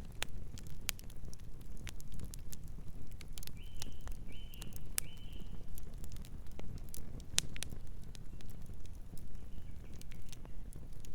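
Campfire crackling: irregular sharp pops and snaps of burning wood over a low, steady rumble. Three short high chirps come about four seconds in.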